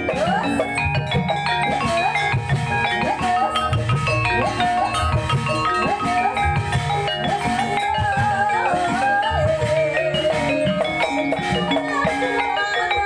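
Live gamelan music for an ebeg trance dance: bronze mallet instruments play stepped notes over low drum strokes, with a wavering melody line winding above them.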